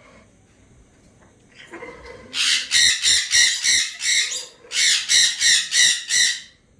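African grey parrot giving two runs of short, harsh squawks, about three a second, with a brief break between the runs.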